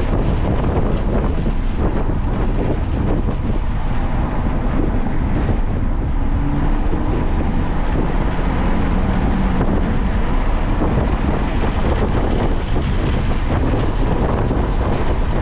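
Onboard sound of a car at speed on a road course: steady wind rush on the microphone over engine and road noise, with a faint engine tone that shifts in pitch.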